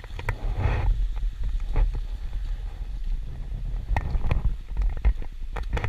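Low rumbling buffeting on the camera's microphone, with scattered sharp clicks and knocks.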